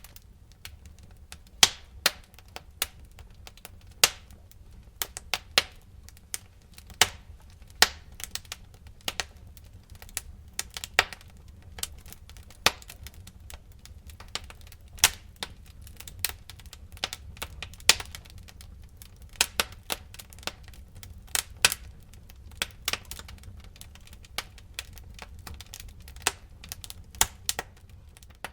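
Bonfire crackling: irregular sharp pops and snaps, some much louder than others, over a low steady rumble of the flames.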